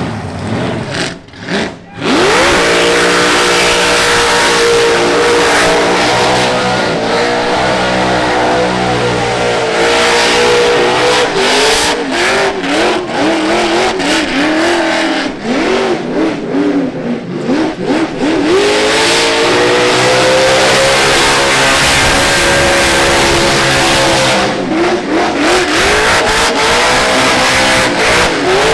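Car engine revved hard about two seconds in and held at high rpm, its pitch wavering up and down through the middle and again near the end as the throttle is worked, typical of a drift or burnout car spinning its tyres.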